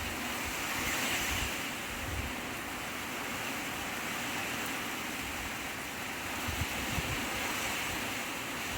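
Typhoon-strength wind rushing steadily, with gusts buffeting the microphone in irregular low thumps.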